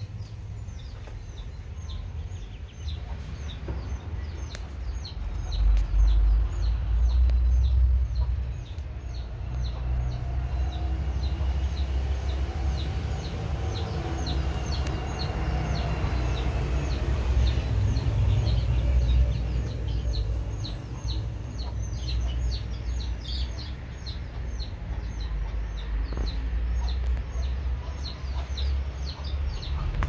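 Birds calling: a small bird chirping over and over, about two to three short high chirps a second, with other bird calls in the middle, over a steady low rumble.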